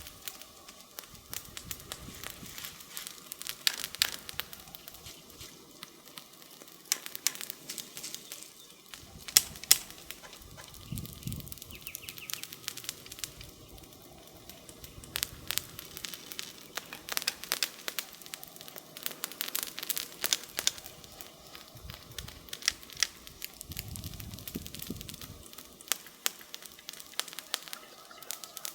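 Wood campfire crackling, with irregular sharp pops and snaps over a steady soft hiss.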